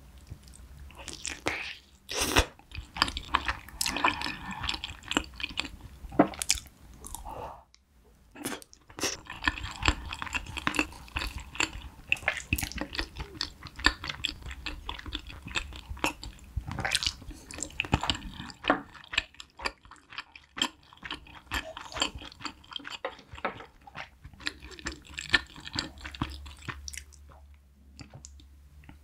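Close-up eating sounds of a person chewing and biting spicy braised chicken, potato and a seaweed-coated rice ball: many short, irregular clicks and crackles of the mouth, with a few brief pauses.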